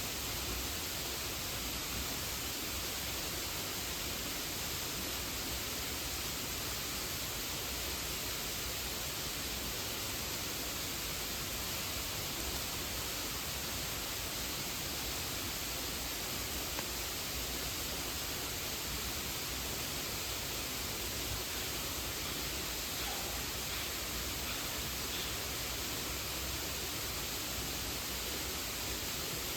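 Steady rushing of a mountain stream and waterfall, an even unbroken roar of water.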